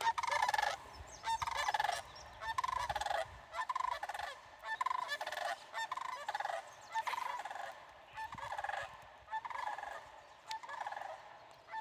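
Sandhill cranes calling in alarm after being flushed, giving rolling, trilled calls over and over, about one call a second.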